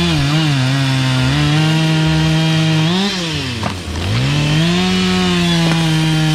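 Chainsaw engine running as it cuts firewood. Its pitch wavers, drops sharply about three and a half seconds in, then climbs back and holds steady.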